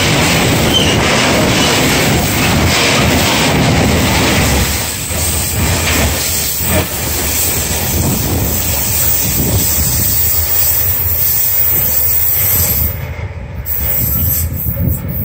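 Fuel tank wagons of a freight train rolling past close by, their wheels clattering over the rails. The noise drops after about five seconds as the last wagon passes and the train moves off down the line.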